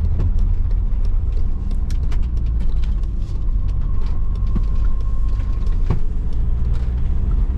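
A car driving slowly, heard from inside the cabin: a steady low engine and road rumble, with scattered light clicks and knocks.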